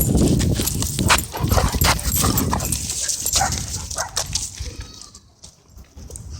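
Dogs barking in a rough wrestling fight, loud and busy at first, then dying down about five seconds in.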